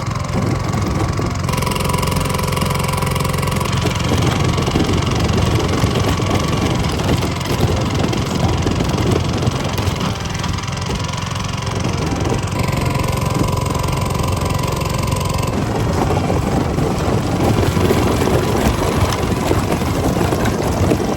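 Mud motor, a surface-drive boat engine, running steadily with a low hum; its tone changes abruptly a few times.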